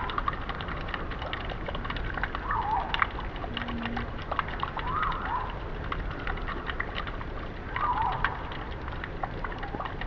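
Steady rain with many sharp drips, and short curving chirp-like calls that rise and fall, recurring every two to three seconds.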